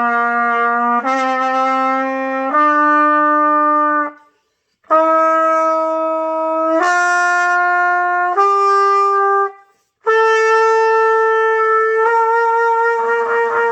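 Trumpet playing long held notes that climb stepwise in short groups with brief breaks, ending on a long higher note. A lower second tone joins under it near the end. This is scale practice, with strength controlled to raise the pitch.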